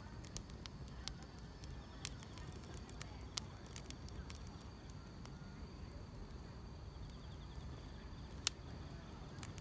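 Wood fire crackling, with sharp single pops a second or more apart, the loudest near the end, over a low steady rumble; grass insects chirp steadily in the background.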